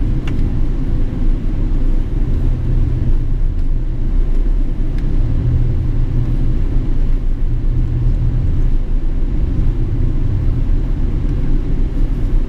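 Steady low rumble of a Boeing 777-300ER with its GE90 engines running.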